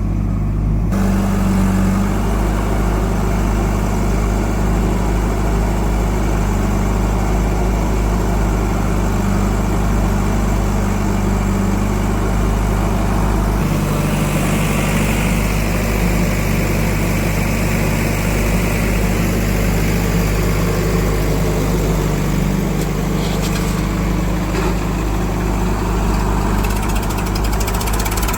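Heavy diesel engine running steadily. About halfway through its note shifts and grows harsher.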